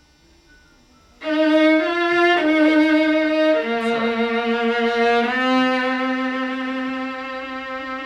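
Viola playing a slow phrase with vibrato. It starts about a second in with several sustained notes, then moves to a long held low note that gradually grows quieter while the vibrato continues.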